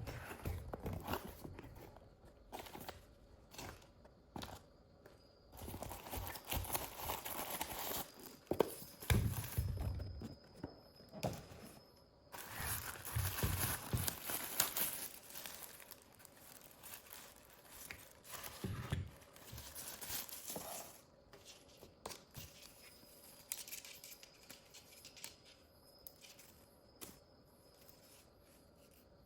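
Packaging being handled: irregular crinkling, rustling and tearing sounds with a few light clicks and knocks.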